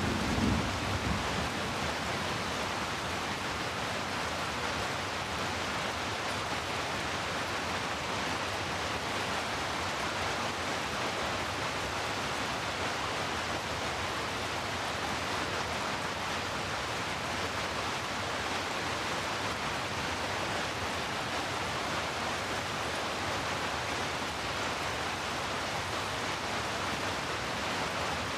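Steady rain hiss, even and unchanging, with the low rumble of a thunder roll dying away about a second in.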